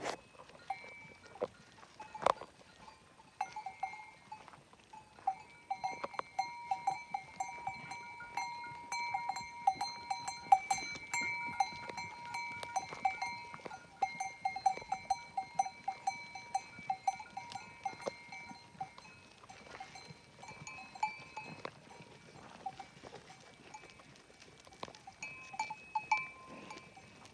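Bells on livestock clinking and ringing irregularly as the animals move and graze, many small strikes with a metallic ring.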